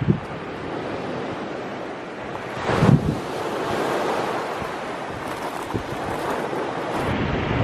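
Sea surf washing onto a beach, with wind noise on the microphone; a louder surge comes about three seconds in.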